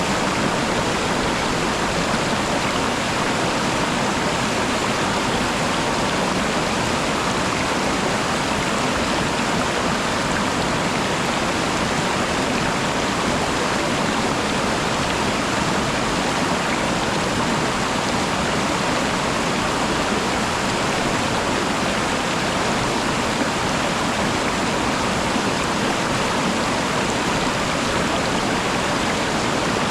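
Steady rush of water from a waterfall, an even unbroken roar of falling and splashing water with no other events.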